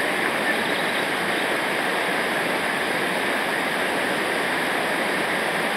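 Rushing river water, a steady, unbroken roar of rapids or a waterfall.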